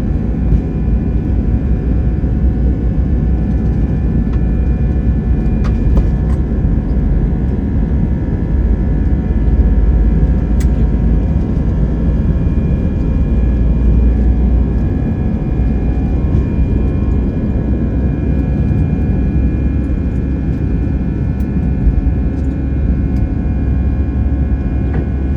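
Cabin noise inside an Airbus A320-214: the steady rumble of its CFM56 jet engines and the air rushing past, with several steady whining tones over it. A few faint ticks come through.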